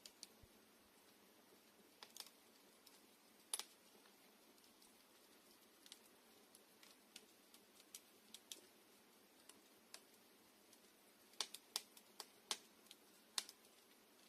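Wood campfire crackling: scattered sharp pops and snaps at irregular intervals over a faint steady hiss, with a quick run of louder pops near the end.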